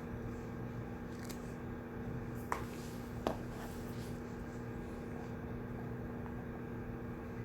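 Steady hum of a study room's ventilation and electrics, with a low rumble and a faint even tone under it. Two small sharp clicks, under a second apart, come near the middle.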